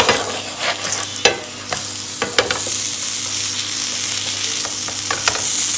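Paratha frying in ghee on a flat griddle pan, sizzling steadily, with a wooden spatula scraping and tapping against the pan several times.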